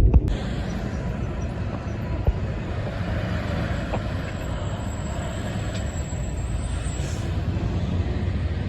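Steady rumble of road traffic, with one brief knock about two seconds in.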